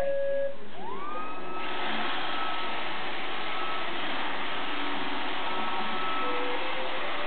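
iRobot Roomba 560 robot vacuum starting up. The last note of its start-up tune sounds, then a motor whine rises in pitch about a second in, and the vacuum settles into steady running.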